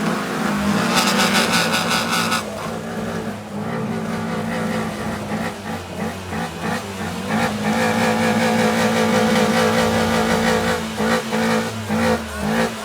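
Car engines running and revving, with a loud burst of rapid crackling about a second in.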